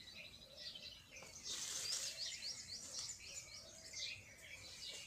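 Several small birds chirping and twittering, with a fast trill near the start and a quick run of rising chirps about a second and a half in.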